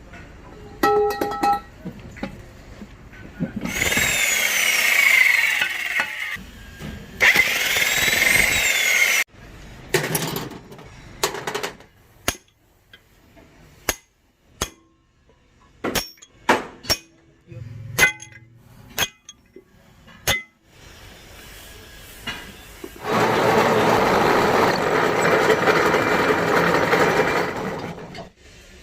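Metalworking on a truck axle: two bursts of grinding-type noise with a sweeping whine, then a string of separate sharp strikes on metal, and near the end about five seconds of steady rough machine noise.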